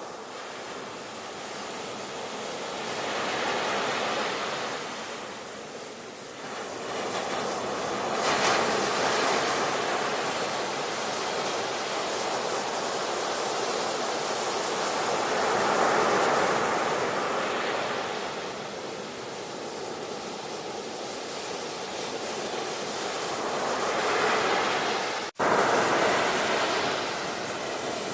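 Ocean waves breaking and washing ashore, surging and ebbing every several seconds. There is a momentary break in the sound near the end.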